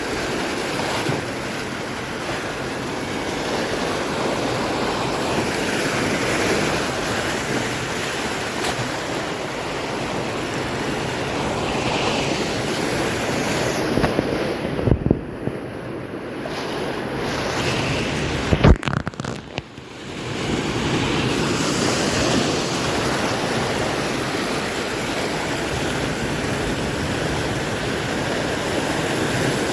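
Heavy ocean swell surging and breaking on the shore, a steady rush of surf with wind buffeting the microphone. Two sharp knocks come about halfway through.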